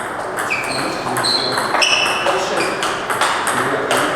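Table tennis balls being struck and bouncing in quick succession: many sharp clicks off rackets and table, several ringing with a short high ping.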